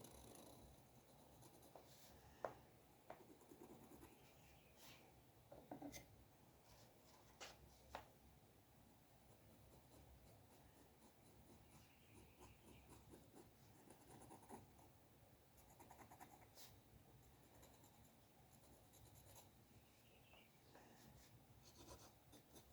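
Faint scratching of a drawing tool on paper in short, intermittent strokes, with a few sharp ticks and taps, the loudest about two and a half seconds in.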